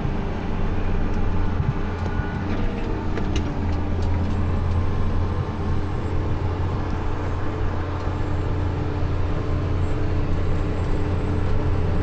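A vehicle engine running at a steady speed with a constant low drone while driving.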